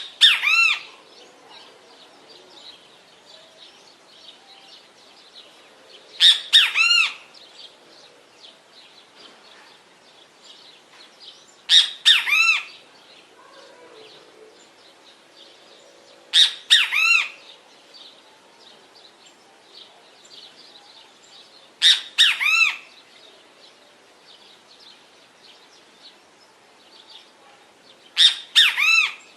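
Great kiskadee giving its loud three-part "bem-te-vi" call, repeated six times at roughly five-and-a-half-second intervals. Faint small chirps in the background between the calls.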